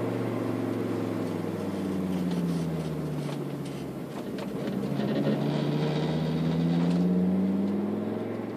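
Volvo 960's turbocharged 2.3 T5 five-cylinder engine running through a 3-inch exhaust with only a middle muffler: the revs drop, then climb again, and the sound fades away near the end.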